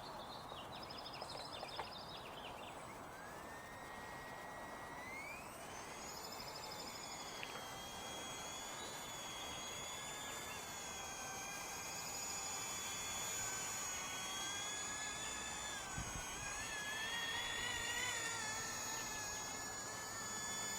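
Blade mSR-X micro RC helicopter's electric motor spooling up in a rising whine a few seconds in, then a steady high whine that wavers up and down in pitch.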